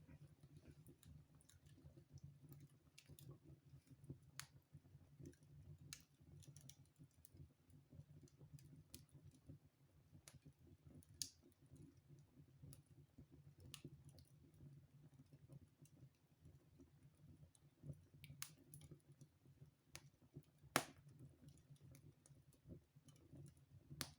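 Wood fire burning in a fireplace: faint, irregular crackles and pops, with one sharper pop about 21 seconds in, over a low steady hum.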